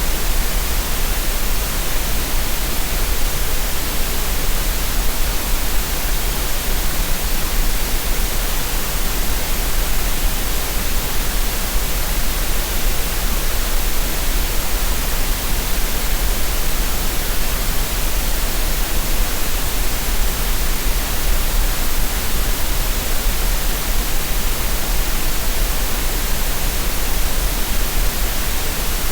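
Green noise: a steady, unchanging, synthetic hiss spread evenly from low to high pitch, with no events or variation.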